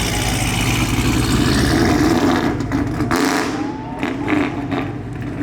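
Supercharged V8 of a 1,000-horsepower Camaro SS convertible running loud as it drives off at low speed. It eases off a little in the second half.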